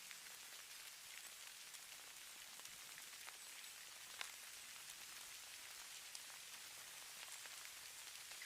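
Falling snow, a faint steady hiss of fine flakes or grains landing, with scattered soft ticks and one sharper tick a little after four seconds in.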